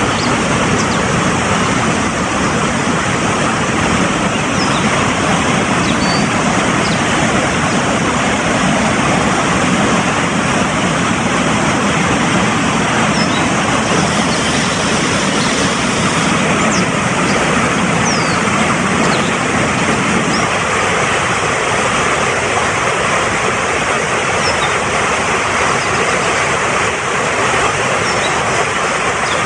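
Mountain stream rushing fast over rocks: a loud, steady roar of water, with a few faint short bird chirps high above it.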